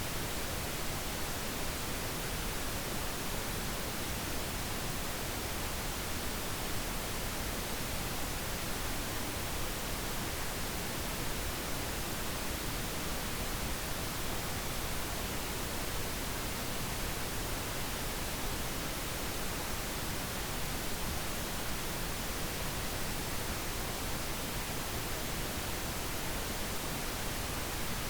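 Steady pink noise, an even unchanging hiss spread across all pitches, played as a sleep sound.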